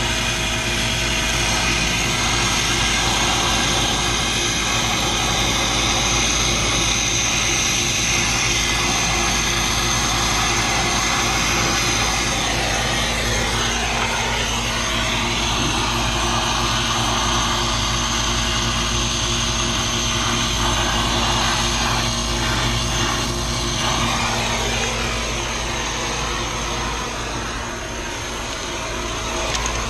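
A machine running steadily with a constant hum and whirr, and a sweep in pitch that dips and rises again about halfway through.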